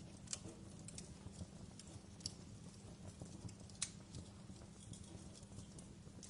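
Wood fire burning in a fireplace: irregular sharp crackles and pops over a low, steady rumble of the flames, the loudest pop about four seconds in.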